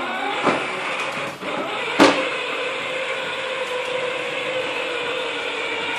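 Battery-powered ride-on toy tractor's electric drive motor and gearbox running with a steady whine, slowed by a weak, uncharged battery. A sharp click comes about two seconds in.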